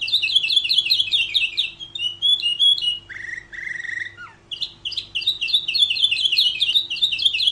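Domestic canary singing: fast trills of rapidly repeated high chirping notes. About three seconds in, the trill gives way to a short, lower phrase, then the fast trill resumes.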